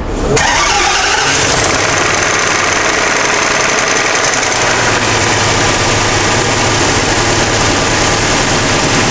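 Range Rover's supercharged engine running steadily at idle with the supercharger drive belt removed, and no knock from the engine itself; the knock had come from the supercharger compressor.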